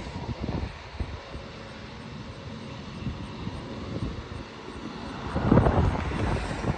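Jet airliner engines heard at a distance, a steady rumble that swells into a louder rush about five seconds in.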